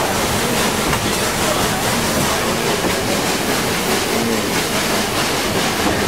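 Steam-hauled train heard from an open carriage window: a steady, loud running noise of the carriage wheels on the track.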